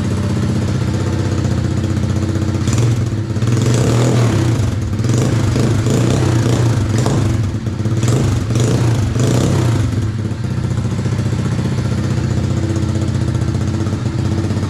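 Small motorcycle engine running steadily, with a few brief throttle changes in the middle, warmed up with the choke off.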